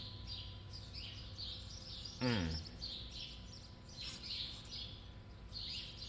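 Small birds chirping over and over, with one short, loud whine a little over two seconds in that falls steeply in pitch.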